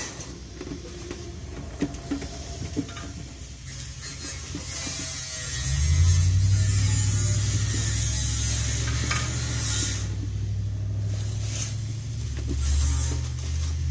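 Light clicks and knocks of metal brake parts being handled, then a steady low engine drone sets in about six seconds in and keeps going.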